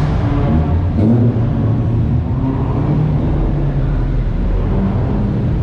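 Car engine running steadily, its sound low and dense, with a short click about a second in.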